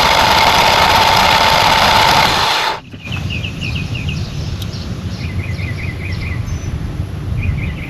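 Generac 20 kW standby generator's V-twin engine being cranked over by its starter in a start attempt, loud and steady, stopping abruptly about three seconds in. A low rumble follows, with birds chirping, and the engine sounds like it is hitting really hard.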